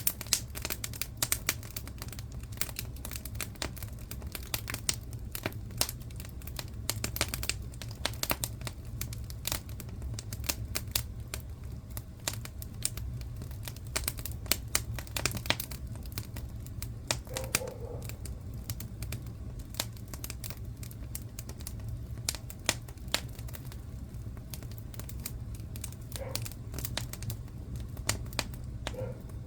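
Wood fire crackling and popping in a fireplace: dense, irregular sharp snaps over a steady low rumble.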